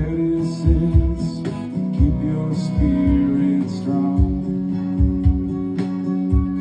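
Live band playing an instrumental passage: guitar over held notes, with a drum beat thumping underneath.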